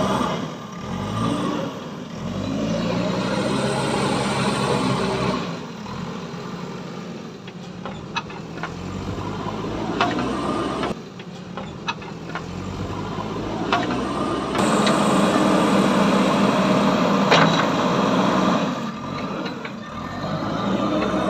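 A heavy machine's engine running, rising in pitch as it revs about a second in, with a few sharp knocks later on. The sound changes abruptly several times.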